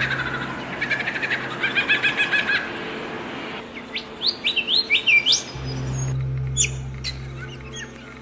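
Songbirds chirping and singing: quick repeated chirps, then a run of swooping whistled notes about four seconds in, then short high chirps. A low steady hum lies underneath, breaking off in the middle and returning.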